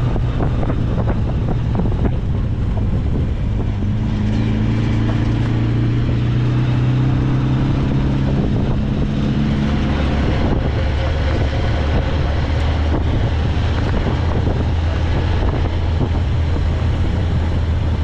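MG Midget open-top sports car driving, its small engine running under a steady rush of wind on the microphone. The engine note climbs slowly for several seconds, then drops to a lower pitch about ten seconds in.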